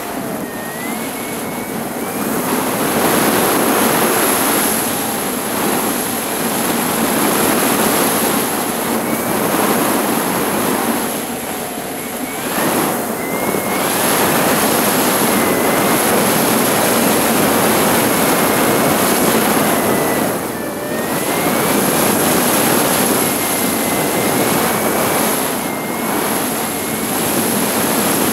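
Heavy wind rushing over a GoPro camera on a motorcycle at road speed, with the bike's engine whine rising in pitch several times as it accelerates. The wind noise eases briefly twice.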